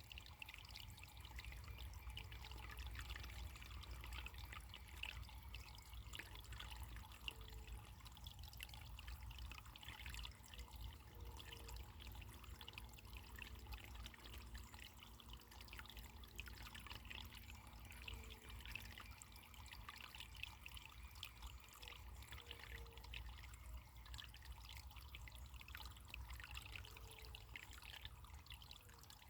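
Faint, steady trickling of running water, like a small stream flowing over stones.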